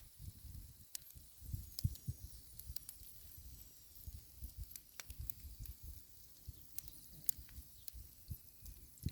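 Ural blue clay splitting as it takes up water: scattered sharp cracks and clicks over irregular dull low thuds, faint throughout.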